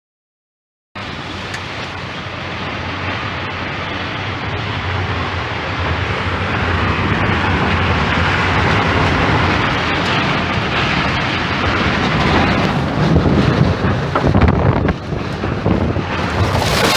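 Strong wind rushing and buffeting the microphone. It starts suddenly about a second in, builds slowly, and turns gustier and more uneven near the end.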